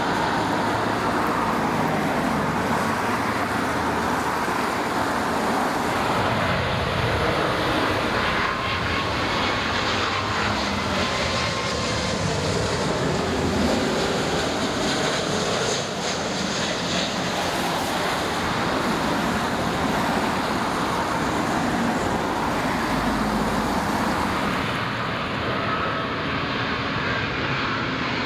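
Jet airliner engines passing close by: a steady, loud noise with faint whine tones that slowly glide in pitch.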